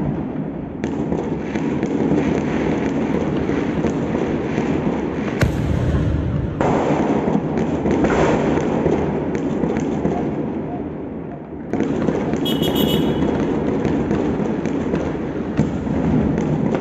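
Fireworks and firecrackers going off in great numbers at a distance: a continuous dense rumble of many bangs and crackles, with sharper pops standing out here and there.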